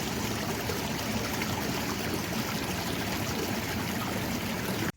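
Steady rush of flowing stream water, cutting off abruptly near the end.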